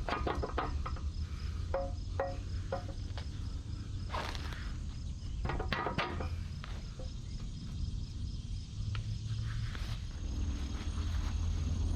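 Intermittent knocks and handling noises from work on the backhoe bucket pins, over a steady low hum, with insects chirping faintly.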